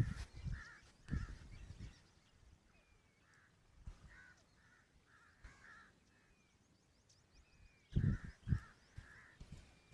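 Grey francolin (desi teetar) calling: short, harsh notes repeated in groups of two to four. A few low thumps sound near the start and again about eight seconds in.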